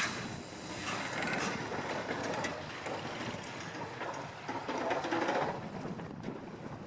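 Avonside steam locomotive shunting wagons: a sharp metallic clank right at the start, then mechanical clattering and rattling, swelling about a second in and again around five seconds in.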